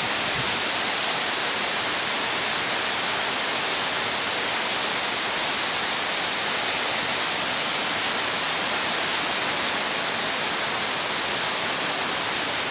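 Heavy storm rain pouring down steadily, a dense even hiss that does not let up.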